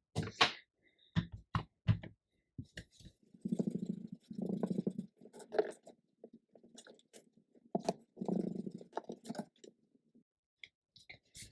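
Paper being handled and folded: crinkling and rubbing with scattered taps, and two longer rasping stretches as the paper is rubbed down.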